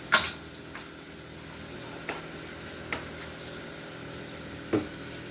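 Sliced onions and garlic in water sizzling steadily in hot olive oil in a frying pan. There is one sharp knock just after the start and a few lighter clicks, a utensil against the pan.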